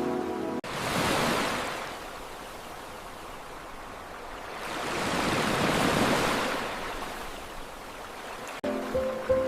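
Ocean waves washing in and drawing back, two surges of rushing surf, the second longer and fuller, between short stretches of background music at the start and end.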